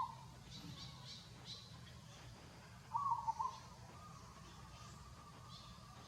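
An animal call: a short warbling call, heard just at the start and again about three seconds in, over scattered faint high chirps and a low steady hum.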